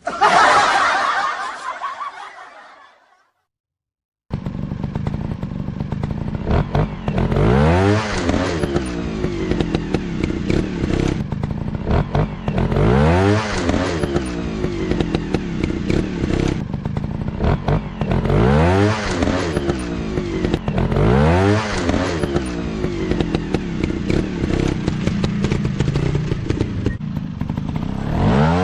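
Dirt bike engine running and revving in repeated bursts every few seconds, its pitch rising and falling with each blip of the throttle. It starts about four seconds in, after a fading sound and a brief silence.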